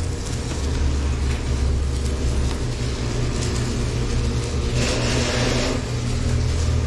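A machine running with a steady low hum, with a short hissing burst about five seconds in.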